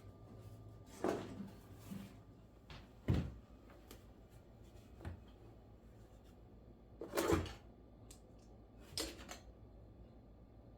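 Five separate knocks and clunks, roughly two seconds apart, the second and fourth the loudest, over a faint steady hum.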